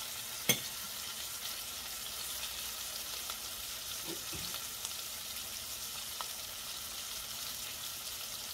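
Plant-based burger patties sizzling steadily in a stainless steel skillet, with a single sharp click about half a second in.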